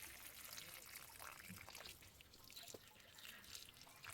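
Faint trickling and dripping of liquid, with a few small ticks.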